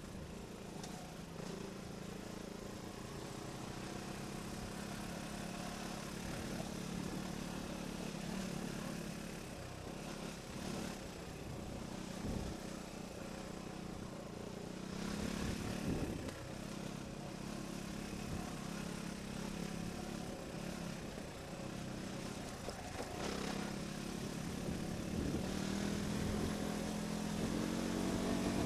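Off-road motorcycle engine running as it is ridden along a rough track, its note rising and falling with the throttle and climbing near the end, with wind noise over it.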